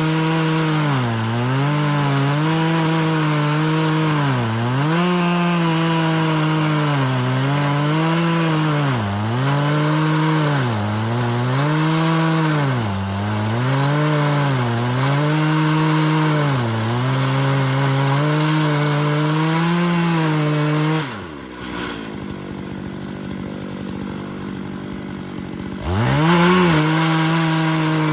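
Chainsaw running at high revs through a live oak log, its engine pitch sagging every second or two as it bogs under the load of the cut. About 21 seconds in it drops to idle for about five seconds, then revs back up to full speed.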